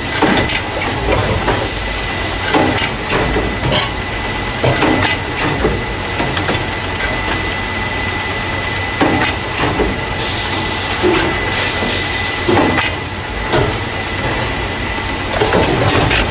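Carton caser, the machine that moves paper juice and milk cartons into plastic crates, running: a steady mechanical din with irregular clacks and knocks and a thin steady high whine. A hiss comes in about ten seconds in and lasts a couple of seconds.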